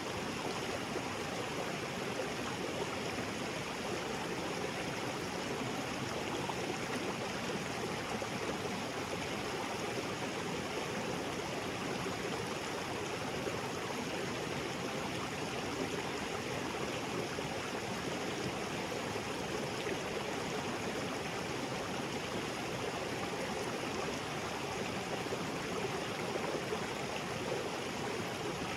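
Small waterfall and creek water splashing and flowing over rocks in a steady, even rush.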